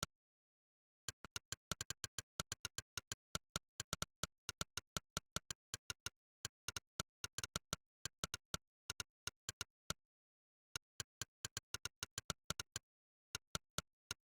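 Monkeytype's synthesized 'click' keypress sound effect, one sharp click per key, about six to eight a second during fast typing. There are short breaks about a second in, near ten seconds and near thirteen seconds.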